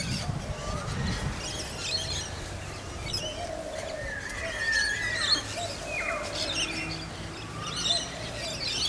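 Several wild birds chirping and calling in short scattered phrases, a few with quick gliding whistles, over a low steady rumble.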